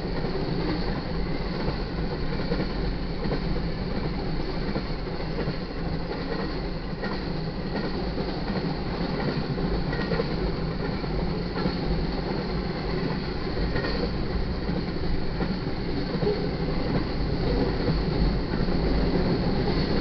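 Double-stack intermodal freight train rolling past: a steady rumble of steel wheels on rail, with a faint high ring over it.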